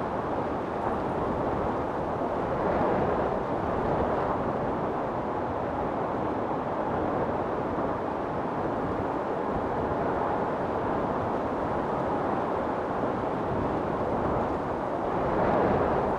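Storm wind blowing steadily as a deep rushing roar, with gusts swelling louder a few seconds in and again near the end.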